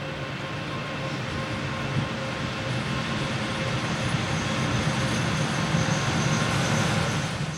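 A train running by: a steady rail rumble with a faint steady whine over it.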